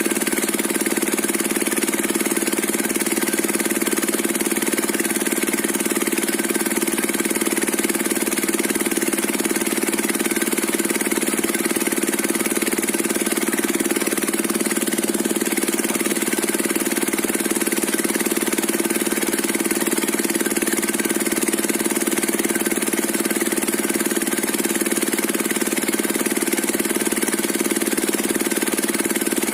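Diesel engine running steadily, driving a circular saw rig.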